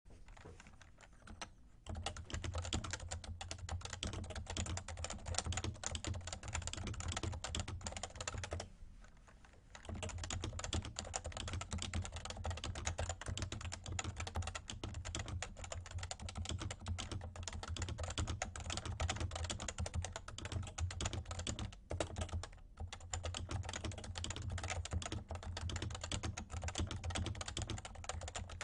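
Continuous fast typing on a Realforce R2 TKL keyboard with 30 g Topre electro-capacitive switches: a dense stream of keystrokes that starts about two seconds in and breaks off for about a second roughly a third of the way through.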